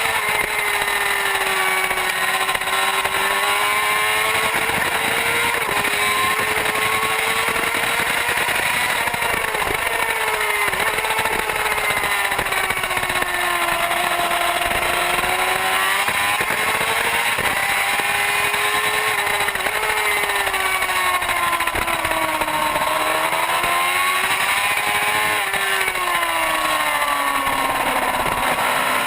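Superbike engine at racing speed, its pitch climbing and falling every few seconds as the rider accelerates and brakes through corners, with a few quick dips at gear changes. A steady rushing hiss runs underneath.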